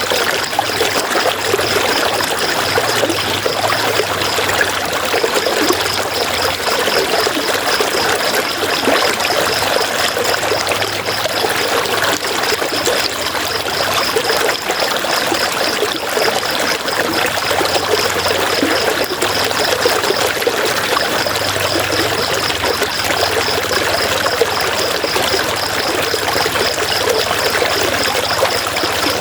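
River water flowing and splashing steadily, with a faint high pulsing tone running through it and breaking off briefly now and then.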